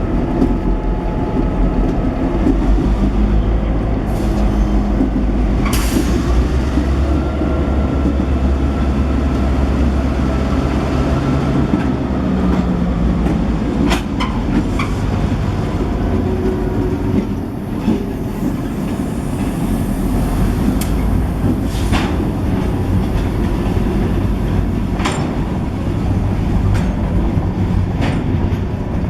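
Diesel train running on the track: a steady low engine rumble with the wheels clicking now and then over rail joints.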